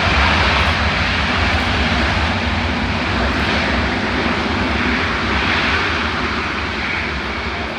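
Boeing C-17A Globemaster III's four turbofan engines running at high power with thrust reversers deployed, slowing the aircraft after touchdown: a loud, steady jet noise that eases off slowly toward the end.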